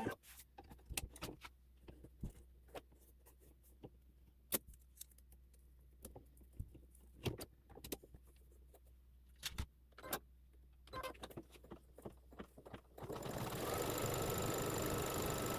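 Machine-embroidery stitching played fast-forward: scattered rapid clicks over a low hum. About two and a half seconds from the end it turns into a dense, much louder rattling whir.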